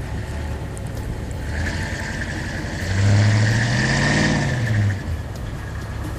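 A 2000 Ford Explorer's 5.0-litre V8 rising in revs and falling back over about two seconds, about three seconds in. A steady high whine and hiss runs with it.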